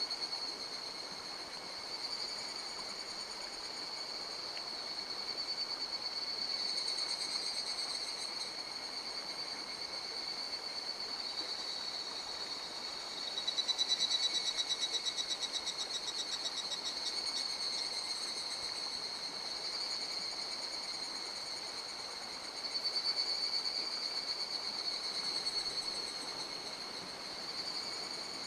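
A steady, high-pitched chorus of calling insects or frogs, swelling into a louder, fast-pulsing trill about halfway through, over the steady rush of a mountain stream.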